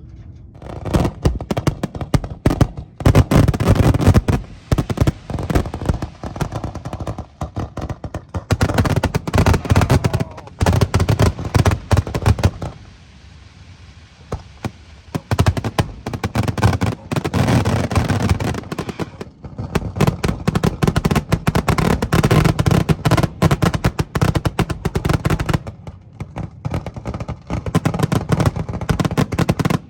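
Fireworks going off, rapid strings of sharp pops and crackles like firecrackers, with a quieter lull about halfway through.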